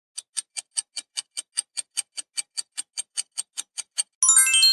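Countdown-timer sound effect ticking quickly and evenly, about five ticks a second. About four seconds in, the ticking gives way to a bright chime of several ringing tones, a time-up or answer-reveal signal.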